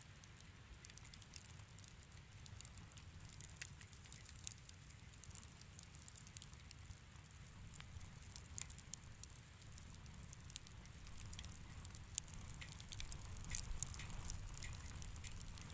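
Wood fire in a fireplace crackling: irregular small pops and snaps over a soft low rumble of the flames, a little busier near the end.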